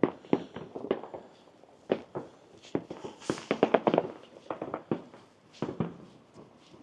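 Fireworks and firecrackers going off across the town: many irregular bangs and pops, some in quick crackling clusters, with a short hiss about three seconds in.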